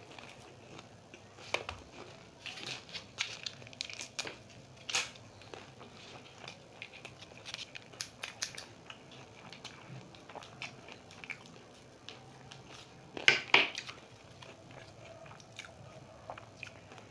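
Close-up chewing and crunching of crispy fried samosa pastry: irregular crackly crunches between quieter chewing, with the loudest bite about thirteen seconds in.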